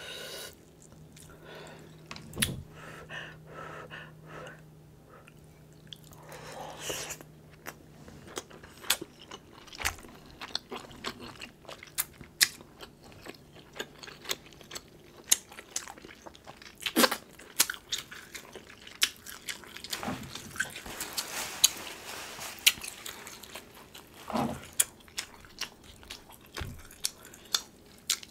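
Close-miked chewing of sauce-soaked king crab meat, with frequent wet mouth clicks and lip smacks.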